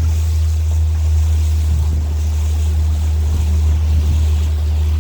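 A tour boat's engine running with a steady low drone, with wind and water noise over it.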